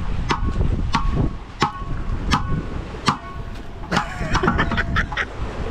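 Hard objects swung together as an oversized lato-lato clacker, knocking sharply about every 0.7 s, then clacking faster and unevenly near the end. A boat's engine drones low underneath.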